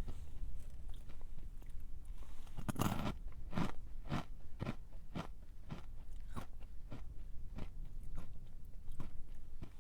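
A person biting into a crunchy snack, with one loud crunch about three seconds in, then steady crunchy chewing at about two chews a second.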